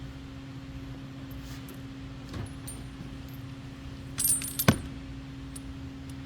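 Metal hand tools clinking against each other: a cluster of light metallic clinks and one sharper knock a little past halfway, over a steady low hum.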